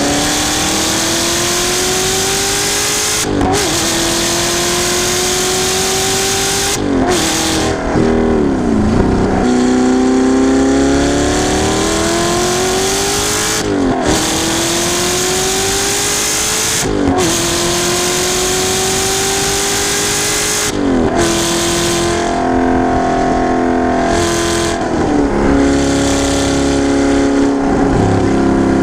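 Audi R8's 4.2-litre V8 through an Armytrix titanium exhaust, accelerating hard on a racetrack: the engine note climbs steadily and drops sharply with each upshift of the gated manual, about six times. Near the end the revs hold and step between pitches instead of climbing.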